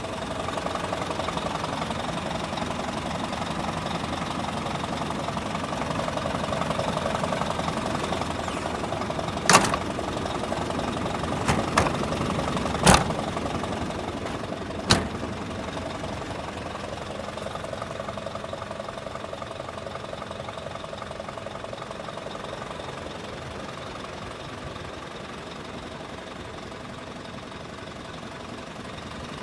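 Isuzu Giga heavy truck's diesel engine idling steadily. Five sharp knocks or clanks fall in the middle of the stretch.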